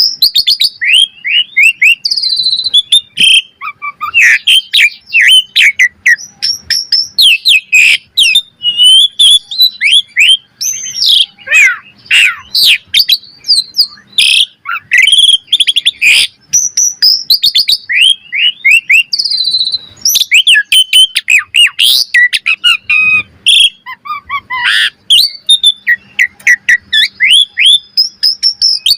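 Asian pied starling (jalak suren) singing non-stop: a fast, varied string of whistled rising and falling notes mixed with sharp clicks and chatter, with no pauses.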